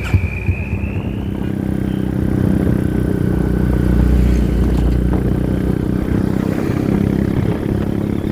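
Excavator's diesel engine running steadily, getting louder from about two seconds in and easing off again, with a high squeal that fades out about a second in.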